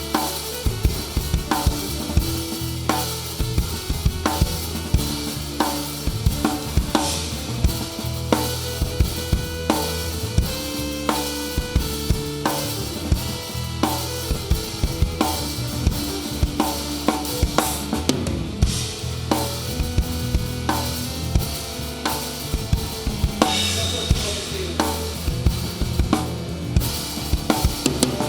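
Rock band playing live, with the drum kit loudest and close to the microphone: a steady beat of regular drum hits over sustained low bass notes and other instruments.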